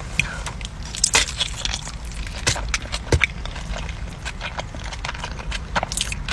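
Close-miked eating: a person biting and chewing food, with a string of short, sharp, crunchy clicks and smacks over a steady low background hum.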